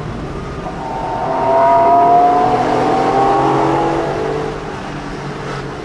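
Porsche 911 Carrera 4S flat-six engine heard from inside the cabin, climbing in pitch as the car accelerates for about three seconds, then falling away and settling as the throttle eases.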